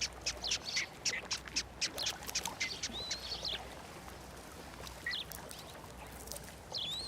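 Osprey chicks peeping, a rapid run of short high chirps that thins out after about three and a half seconds, with a short wavering whistle about three seconds in and a few scattered peeps later.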